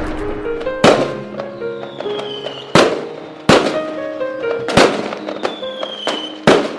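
A fireworks sound effect: five sharp bangs about every second or two, each trailing off in crackles, with whistles falling in pitch before two of them. Under it runs the instrumental intro of a song, with held notes.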